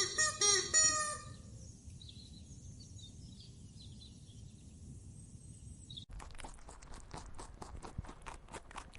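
A quick series of short, pitched animal calls, about three a second, that stops about a second in. Faint high chirps follow, then from about six seconds in a rapid run of sharp clicks or crunching steps.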